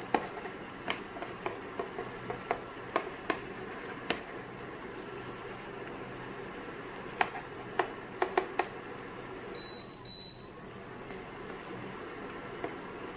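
Egg and minced-beef mixture frying in oil in a nonstick pan, a steady sizzle with scattered pops and crackles as the bread is pressed down onto it. About two-thirds of the way through, two short high beeps from the induction cooker's control panel.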